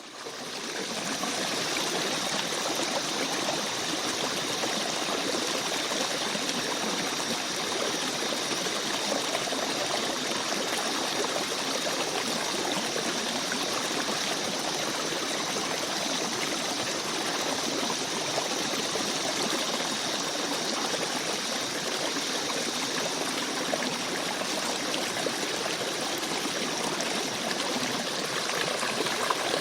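Gentle forest stream babbling and trickling steadily, fading in over the first second.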